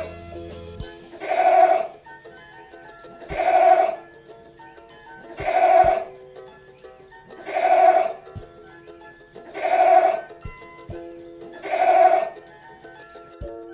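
A goat bleating six times, about every two seconds, each call alike, over soft background music.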